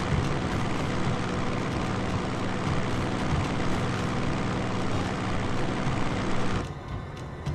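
Propeller aircraft engines running loud: a dense, steady drone with a low hum. It cuts off sharply near the end.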